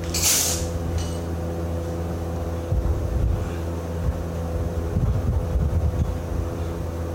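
An engine running steadily with an even hum, with a short hiss lasting about half a second at the very start and uneven rumbling from wind on the microphone.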